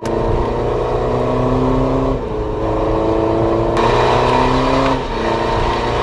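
BMW 520d (F10) 2.0-litre four-cylinder diesel running loud through a custom valve-controlled exhaust, with the level dipping briefly about two seconds in and again about five seconds in.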